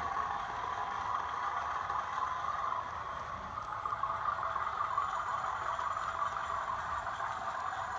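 Model locomotive's Zimo sound decoder playing a Class 50 diesel engine sound through its small onboard speaker, running steadily. The sound is thin, mostly in the middle range with little bass.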